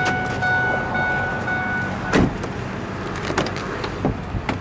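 A steady electronic warning tone from the truck cuts off about two seconds in, followed by a sharp thump and a few lighter clicks.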